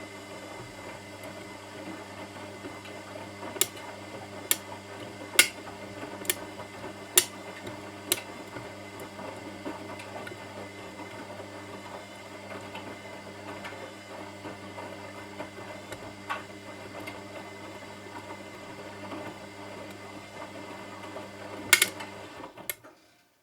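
Washing machine running with a steady motor hum and churning of the wash, with sharp knocks about once a second for a few seconds as something hard in the load strikes the drum. Two louder knocks come near the end, then the sound cuts off suddenly.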